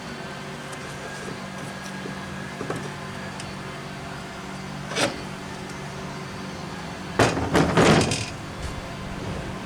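Engine parts being handled on a workbench: one sharp click about five seconds in and a short scraping rattle a little past seven seconds, over a steady low hum.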